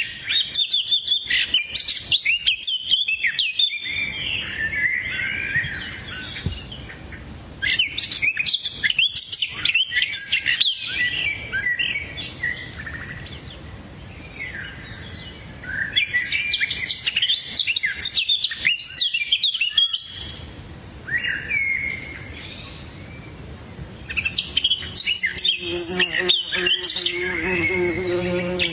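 Small songbirds chirping and trilling in rapid bursts of a few seconds each, with quieter gaps between. A lower, steady pitched tone comes in near the end.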